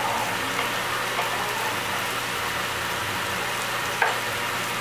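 Diced chicken and bacon sizzling in fat in a metal pot over the steady hum of a kitchen fan, with one sharp pop about four seconds in.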